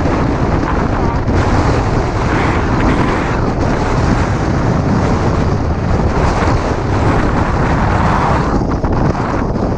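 Strong wind buffeting the microphone in gusts, a loud rumbling roar that swells and eases.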